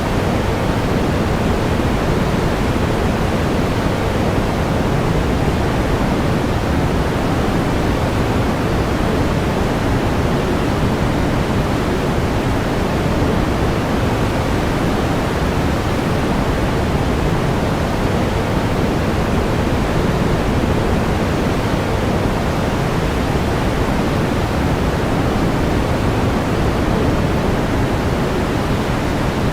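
Steady pink noise: an even hiss, strongest in the low end and thinning toward the top, with no change or events.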